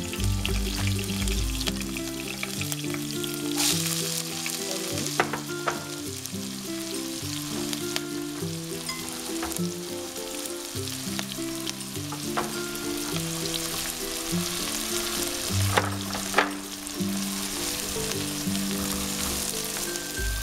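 Cumin seeds and green chillies crackling in hot oil, then chopped onions frying with a steady sizzle, with a few sharp pops along the way. Background music with slow held notes plays along.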